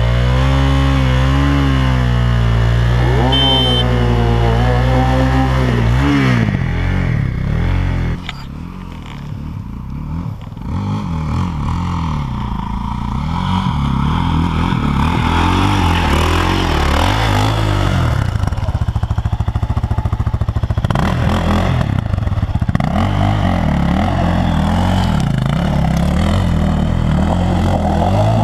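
Off-road motorcycle engine revving hard in bursts, its pitch rising and falling for about six seconds as a bike is forced up a steep dirt bank, then dropping away; after a lull, motorcycle engines run again and build up to a steady drone.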